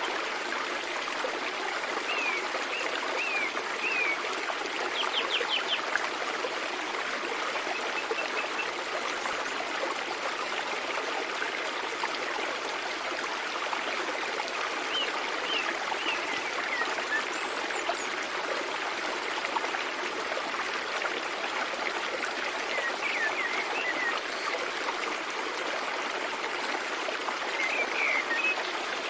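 Mountain stream flowing over rocks in a steady rush, with short bird chirps several times over it.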